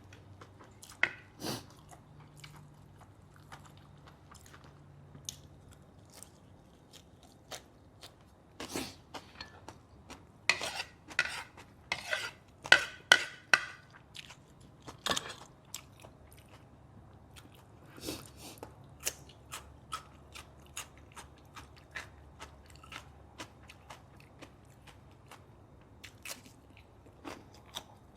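Close-miked chewing and crunching of food: scattered crunchy bites and mouth clicks, with a run of loud crunches from about ten to fifteen seconds in.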